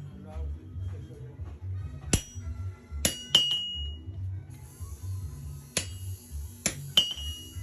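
Blacksmith's hammer striking iron stock on an anvil, each blow ringing out with a clear metallic tone: about six irregular blows, some in quick pairs, while a pry bar is hand-forged. A steady high hiss comes in about halfway.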